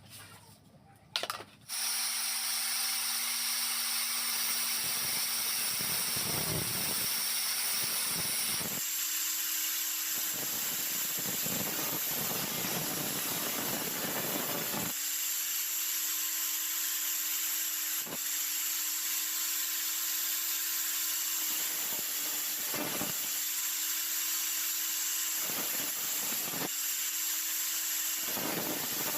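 Electric power tool starting up about two seconds in and running with a steady hum and high whine. Its pitch steps up twice, and its tone drops out briefly several times as it bears into the work.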